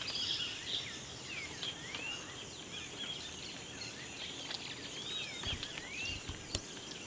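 Rainforest ambience: many birds calling in rising and falling whistled notes over a steady high insect drone, with a few soft knocks in the second half.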